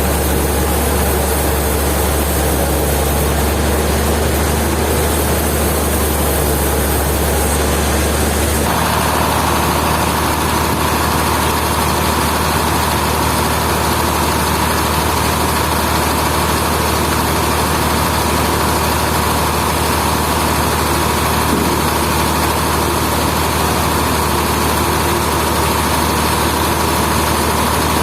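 Heavy machinery running steadily with a low hum. About nine seconds in, the sound shifts and a steady whine joins.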